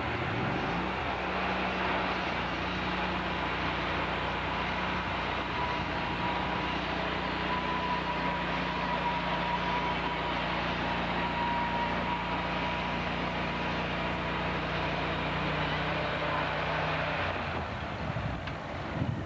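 Sawmill machinery running: a steady mechanical drone with a thin high whine over it. The low hum drops away about seventeen seconds in.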